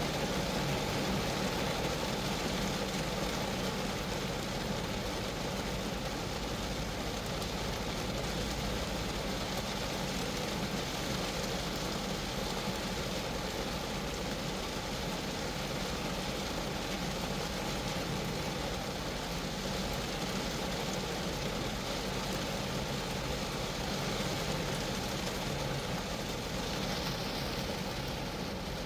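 Rain falling on a Geo Metro's roof and body, a steady even hiss of drops with a low drumming underneath.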